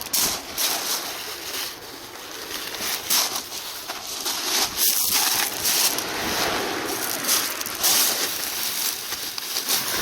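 Gusty wind rushing over the microphone, a rough hiss that swells and eases with short rattling knocks of buffeting.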